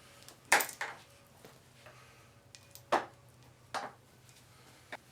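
About five short, separate knocks and clinks of metal hardware being handled: the motorcycle-chain hold-down and its fixings being set up for mounting. The first knock is the loudest.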